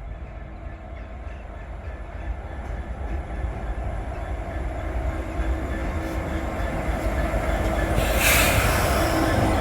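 Class 66 diesel locomotive, with its two-stroke V12 diesel engine running, drawing into a station, growing steadily louder as it approaches. A short harsh burst of noise comes about eight seconds in.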